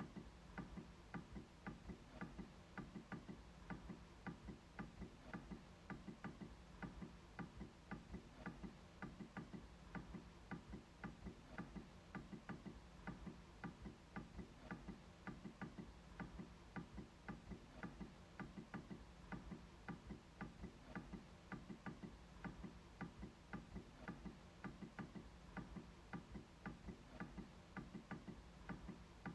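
MacBook trackpad being clicked over and over: faint, short clicks at a steady rate of about two to three a second.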